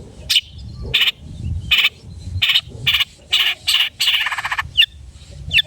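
Long-tailed shrike (cendet) giving a quick series of short, harsh, buzzy calls, with one longer buzzy call about four seconds in, over a low background rumble.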